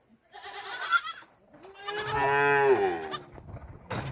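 Goats bleating: a short, wavering bleat near the start, then a longer, louder bleat about two seconds in.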